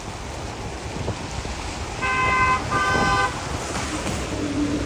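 A vehicle horn honks twice, two blasts of about half a second each just past two seconds in, over steady traffic noise.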